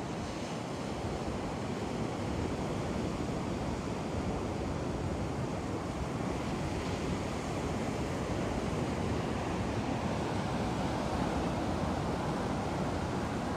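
Steady rush of ocean surf with wind, a continuous noise that swells slightly after a couple of seconds.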